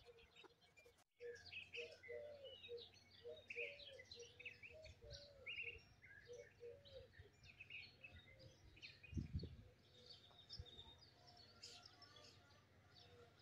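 Small birds chirping and twittering faintly, many short high calls, with a single low thump about nine seconds in.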